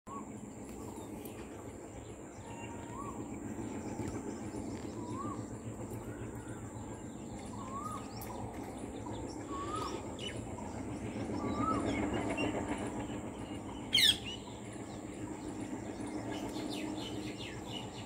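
Bird calls including a rose-ringed parakeet: a short rising-and-falling note repeats every two seconds or so among small high chirps, and one loud, sharp call sweeps downward about fourteen seconds in, over a steady low background hum.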